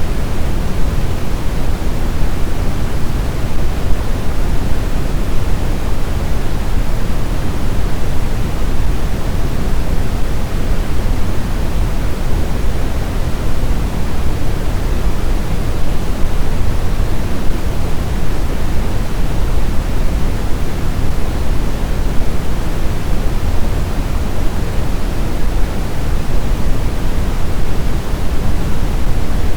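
Steady blizzard wind noise, strongest in the low end and thinning toward the top, with no gusts, whistles or breaks.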